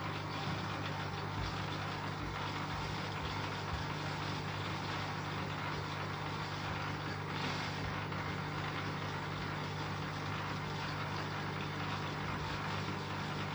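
Bosch Aqua Star washing machine running, a steady low motor hum with an even whooshing noise over it.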